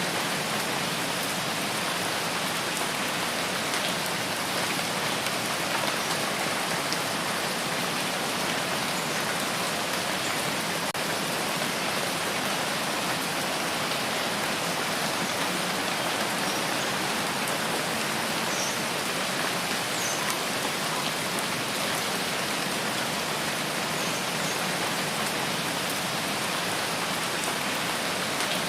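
Steady rain falling in a rain forest, a constant even hiss with no let-up.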